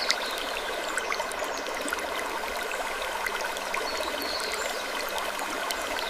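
Sleep-ambience soundscape: a steady, dense rushing hiss scattered with many small clicks and crackles, with a brief faint high creak just after the start and again about four seconds in.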